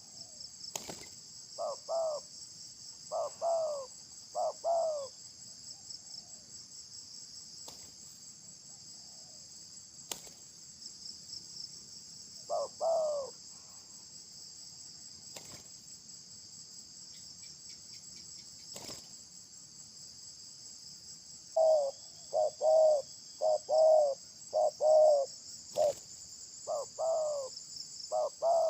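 Crickets and other insects trilling steadily, with a bird giving short, low, two-part calls in clusters: a few near the start, one in the middle, and a quick run of about ten near the end. A few sharp clicks are heard in between.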